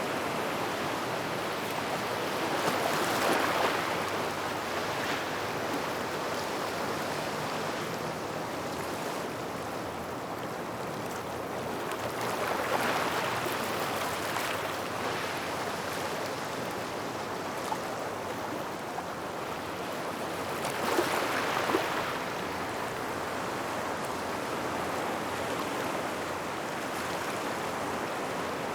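Waves washing onto a gravel shoreline near rocks: a steady wash of surf, with three louder surges spaced roughly nine seconds apart.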